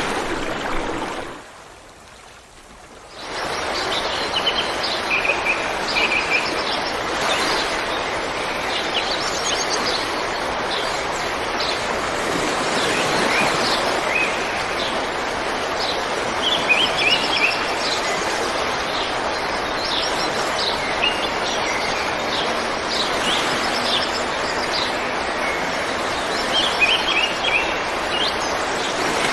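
River water flowing over rocks in a steady rush, with small birds chirping and calling over it. The water sound drops away briefly about a second in and comes back about two seconds later.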